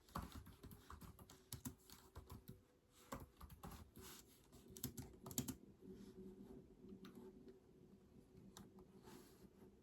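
Typing on a keyboard: quiet, irregular key clicks, coming thickly in the first half and more sparsely toward the end.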